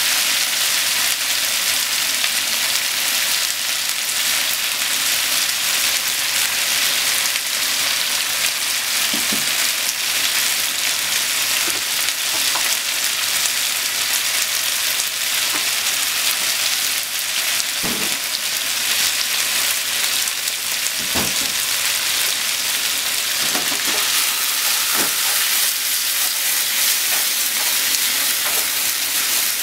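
Chicken, carrot, onion and green pepper sizzling steadily in a frying pan, with a few short knocks now and then; near the end the pan is shaken to toss the stir-fry.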